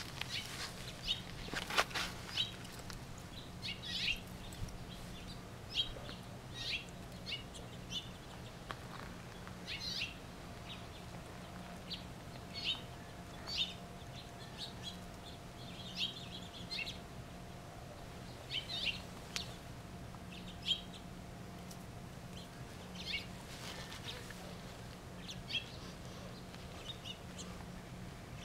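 Small birds chirping in short high calls every second or two, over a faint steady low hum.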